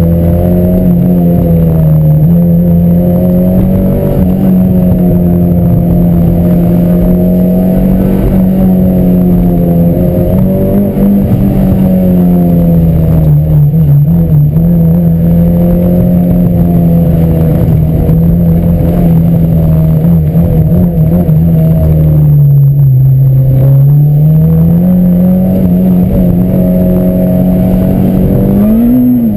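Honda Civic Si's K20/K24 'Frankenstein' four-cylinder engine pulling hard at high revs, heard from inside the cabin. Its pitch holds mostly steady with small dips and rises, sags lower about 22 seconds in and climbs back, then revs up briefly near the end before falling away sharply as the throttle is lifted.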